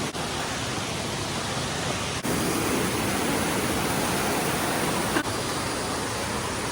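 Steady rush of falling water from a mountain waterfall. It is louder for a stretch from about two seconds in to about five seconds in, with abrupt shifts in level at each end.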